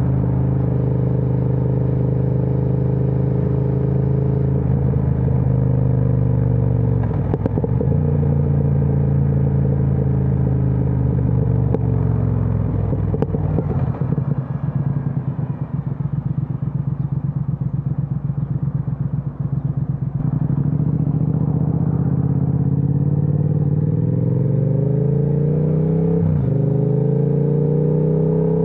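Triumph Speed Twin 1200 parallel-twin engine through an aftermarket Vance & Hines exhaust, heard from the rider's seat. It runs steadily at first, then rolls off with crackling on the overrun midway. Near the end it accelerates with rising pitch, and two gear changes cut in.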